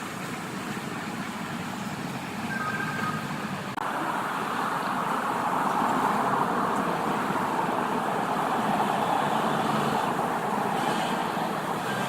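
Steady road and traffic noise that grows louder about four seconds in, with a brief high squeak a little before that.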